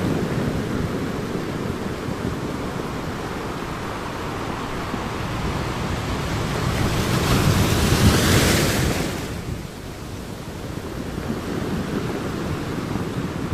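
Ocean waves on a beach: a steady rush of surf with one wave building and breaking about halfway through, its hiss cutting off abruptly just past the middle.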